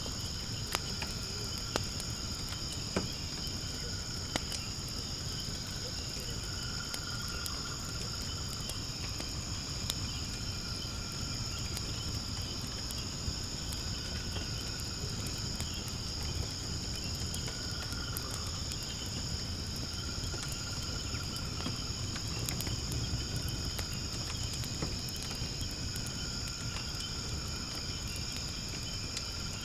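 A steady high-pitched chorus of night insects, with scattered sharp pops and crackles from firewood burning in a fire pit.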